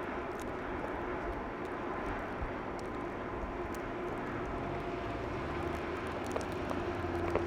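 City street traffic: a steady hum and noise, with a heavy vehicle's engine rumble growing louder in the second half.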